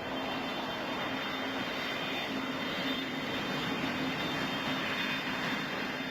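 Aircraft engines running: a steady rushing noise with a low hum and a faint high whine, holding level throughout.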